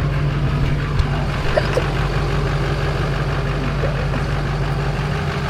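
A vehicle engine idling steadily with a low, even hum, and a single sharp click about a second in.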